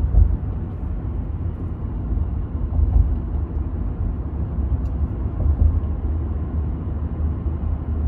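Steady low rumble of a moving vehicle, heavy in the bass, with no clear engine pitch or rhythm.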